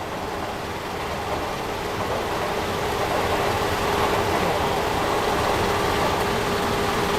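A motor engine running steadily with a faint steady whine, growing gradually louder.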